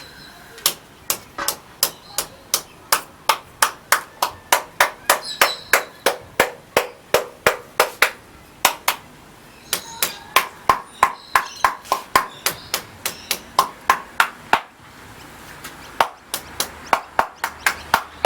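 Concrete balcony surface being tapped in steady, evenly spaced knocks, about two to three a second, sounding for drummy, hollow spots where the top of the concrete has lifted off. The tapping stops about 15 seconds in and starts again for a few knocks near the end.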